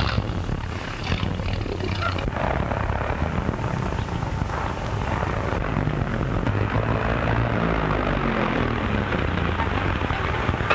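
An open touring car's engine running as the car drives along, a steady low drone under the hiss of an old film soundtrack.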